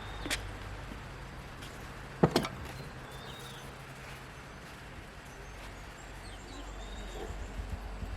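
Two sharp knocks, a light one just after the start and a much louder one about two seconds in, over a low steady hum, with a few faint high chirps.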